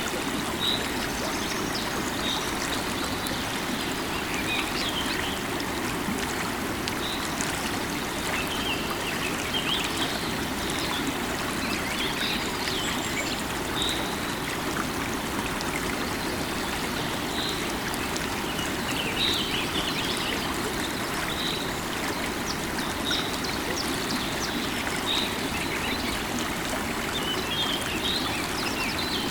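Running river water flowing steadily, with birds chirping over it: one bird repeats a short high note every second or two while others twitter now and then.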